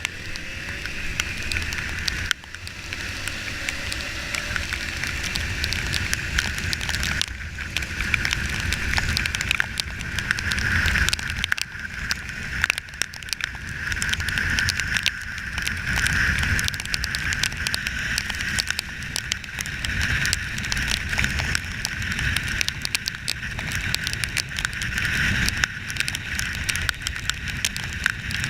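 Wind and road noise on the camera of a motorcycle being ridden, a steady rush and low rumble with dense crackling all through.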